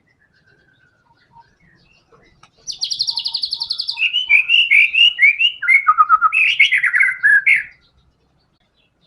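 White-rumped shama (murai batu) singing a burst of song. After a couple of seconds of faint chirps, it gives a fast, high, rattling trill lasting about a second, then a run of loud, varied whistled notes that slide downward, stopping abruptly about a second before the end.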